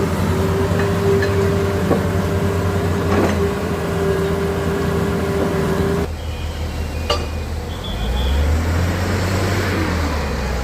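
Motor vehicle engines running steadily, with a steady whine that cuts off about six seconds in and a deeper rumble that rises near eight seconds.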